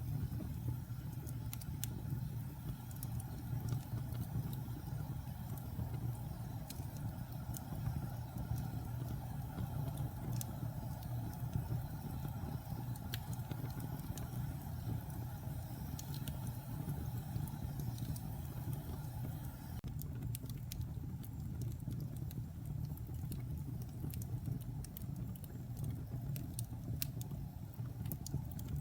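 Wood fire crackling in a fireplace: scattered sharp pops and ticks from the burning logs over a steady low rumble of the flames.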